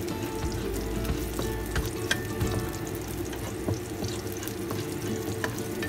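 Minced garlic sizzling in hot cooking oil in a wok, with a metal spatula scraping and clicking against the pan as it is stirred.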